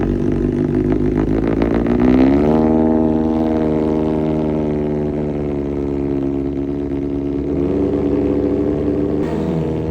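Kawasaki ZX-6R inline-four engine running after a cold start. The revs rise about two seconds in, hold fairly steady with small drifts, and dip near the end.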